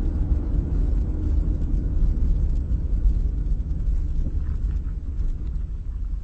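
Steady low rumble of a car driving, picked up by a dash camera, with no distinct impact.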